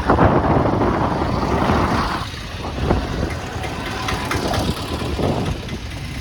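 Motorcycle engine running with road and traffic noise while riding, loudest for the first two seconds and then quieter, with a few short sharp sounds.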